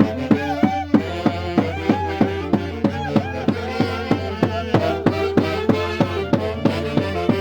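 Peruvian santiago dance music with a steady beat of about three strokes a second under a sustained melody.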